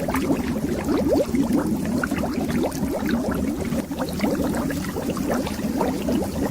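Underwater bubbles rising in a steady, dense stream of quick bubbling blips, each a short upward-gliding plop, over a low rumble.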